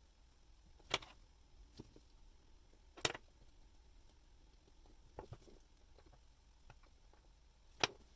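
A few faint, sharp metallic clicks of tweezers and small watch parts being handled on a watch movement. The loudest come about a second in, three seconds in and near the end.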